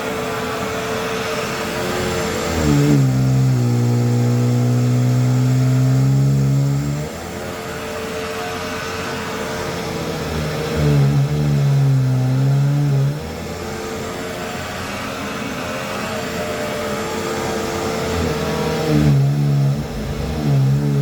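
Hoover WindTunnel bagless upright vacuum cleaner running on carpet: a steady motor hum and whoosh. Three times, for a few seconds each, its tone drops much lower and gets louder before settling back.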